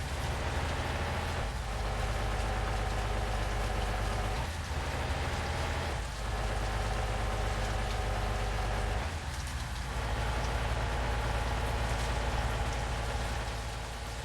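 Truck engine running steadily under a constant rushing noise, with a few brief dips in its hum.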